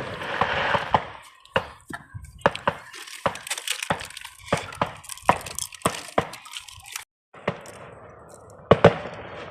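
Fireworks popping and crackling: a rapid, uneven string of sharp cracks, with a brief total cut-out about seven seconds in.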